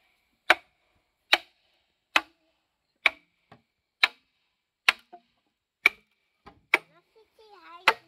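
Steady chopping blows with a blade, about one a second, each a sharp hit with a short metallic ring.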